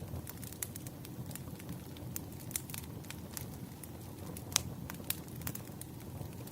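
Fireplace wood fire crackling: irregular sharp pops and snaps over a low steady rumble of the flames, with one louder pop a little past the middle.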